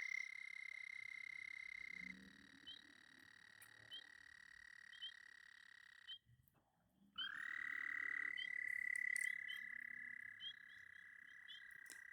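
Frogs calling at a breeding pond: a long, steady high-pitched trill fades about 2 seconds in, and after a short gap another trill starts with a slight upward slide and holds until near the end. Brief faint chirps are scattered in between.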